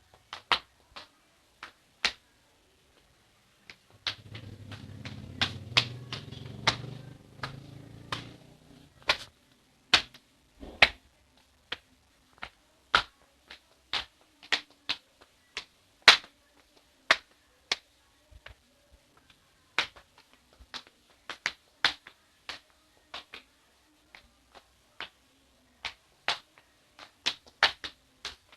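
Slippers slapping on a hard floor with each step, at an uneven walking pace of about one to two steps a second. A low hum runs under the steps for a few seconds, starting about four seconds in.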